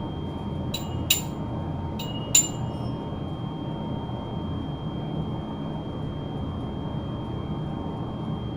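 Steady low machinery drone with a thin high whine over it, and four sharp metallic clinks in the first two and a half seconds, as of metal parts or tools knocking together.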